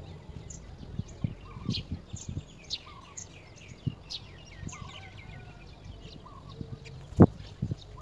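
Small birds chirping in short, quick, high notes, with a few dull thumps, the loudest about seven seconds in.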